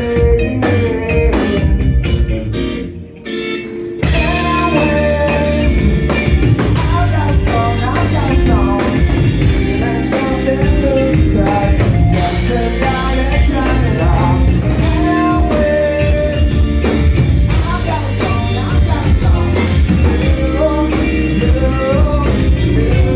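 Live band playing loud music with a singer, recorded from the crowd; about two seconds in the band briefly drops away, then crashes back in at full volume a couple of seconds later.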